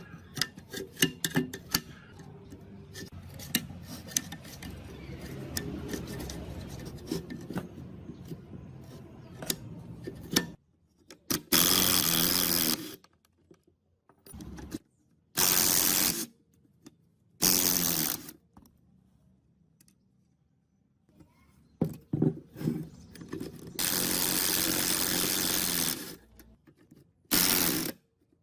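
Small tool clicks and knocks on metal pump parts, then a power tool run in five short bursts of one to two seconds each, with quiet gaps between them.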